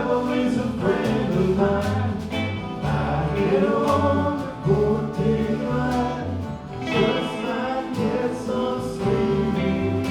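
Live band music: voices singing a melody together over guitar, with bass notes changing underneath.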